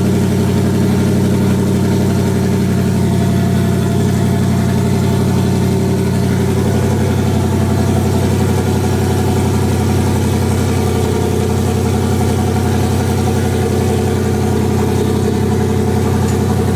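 Turbocharged 2018 Ford Mustang GT's 5.0 L Coyote V8 idling steadily on its first start on a base tune. Its note changes slightly about seven seconds in.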